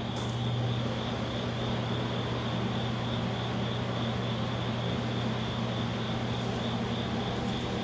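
Gas flare burner burning steadily while a squirrel-cage blower drives a strong wind at it. The sound is a constant rushing noise with a low hum that strengthens at the start and a thin high whine.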